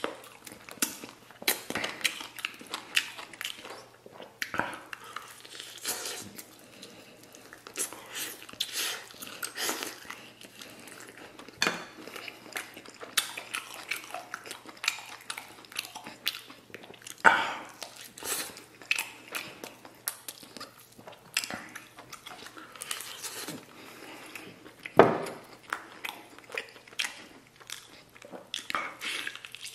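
Mouth sounds of a man gnawing stewed lamb ribs off the bone: wet chewing and biting with crunches of cartilage, irregular throughout, with sharper clicks now and then, the loudest about 25 seconds in.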